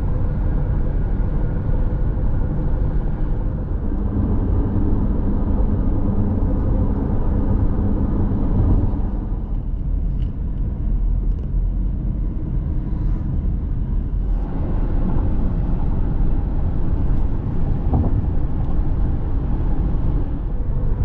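Steady road and engine noise inside a moving car's cabin, a continuous low rumble that eases for a few seconds midway and then returns.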